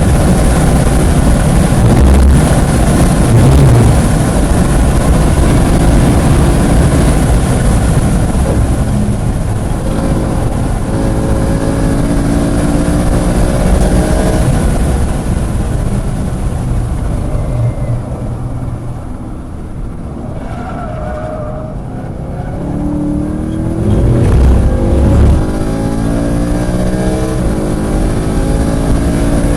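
Onboard sound of a car at full throttle on a racetrack, with wind noise. The engine pitch climbs through the gears, drops away during a lift about two-thirds of the way through, then rises again under hard acceleration.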